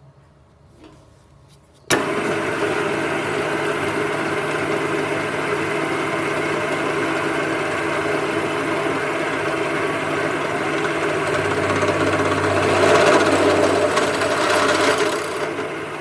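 A motor starts suddenly about two seconds in and runs at a steady pitch for about fourteen seconds, growing a little louder and harsher near the end before winding down.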